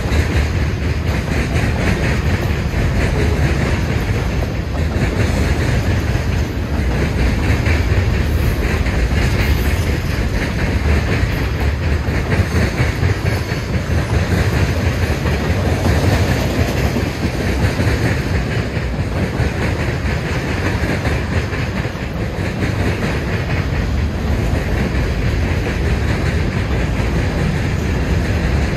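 Freight train cars (covered hoppers and tank cars) rolling past, steel wheels clacking over the rail joints in a steady, loud rumble.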